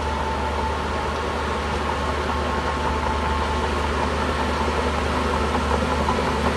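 Shantui bulldozer's diesel engine running steadily, a constant low drone with a thin high whine over it.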